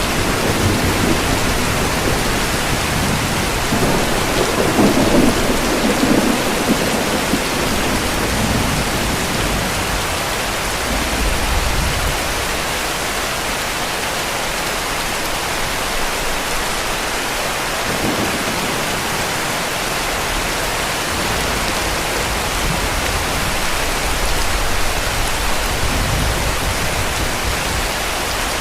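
Steady heavy rain with low rumbles of distant thunder, the strongest about four to six seconds in.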